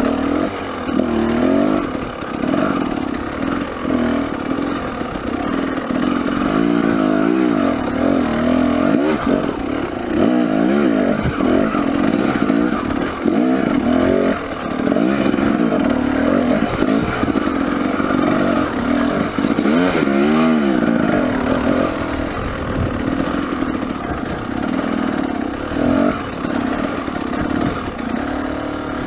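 A 300cc two-stroke enduro dirt bike engine running under a constantly worked throttle, its pitch climbing and dropping again and again as the bike picks its way over rocky ground.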